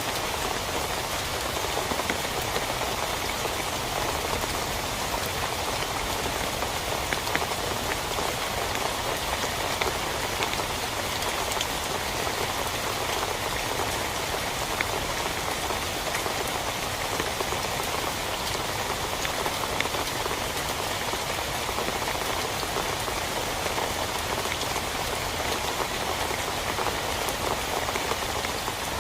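Steady heavy rain falling on a tent, with individual drops ticking through the constant hiss.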